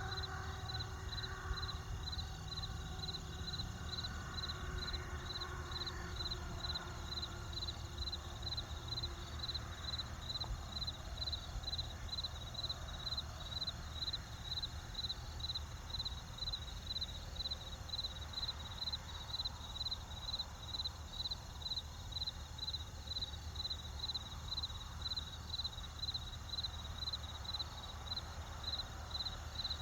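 Crickets chirping in a steady, even rhythm of roughly two chirps a second, over a low steady rumble.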